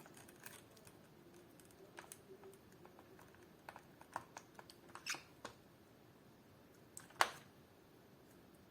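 Scattered light clicks and taps of Allen keys being picked out and tried for fit, with one sharper click about seven seconds in.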